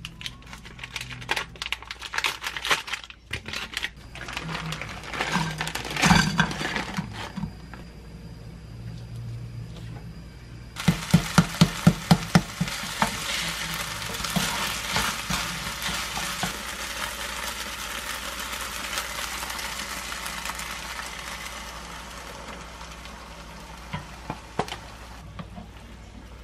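Clicks and crinkles of packaging being handled and opened, then konjac fried rice starts sizzling in a nonstick frying pan about a third of the way in. A quick run of sharp taps as a spatula pats the rice to break up clumps comes as the sizzle begins; the sizzle then runs steadily and slowly fades.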